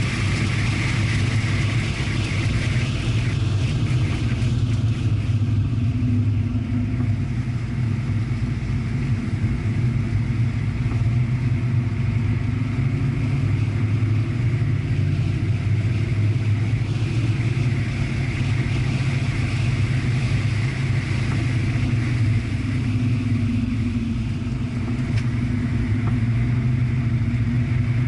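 Corvette V8 heard from inside the cabin at track speed, a steady engine drone with road and wind noise. The engine eases off a few seconds in as the car slows for a corner, then pulls harder again later on.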